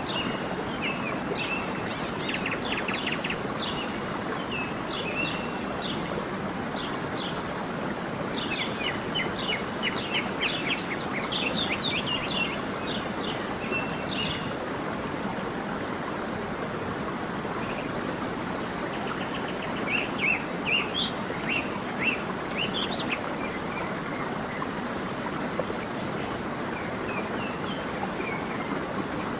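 A stream running steadily, with songbirds chirping over it in clusters of quick high notes, busiest through the middle and again about two-thirds of the way through.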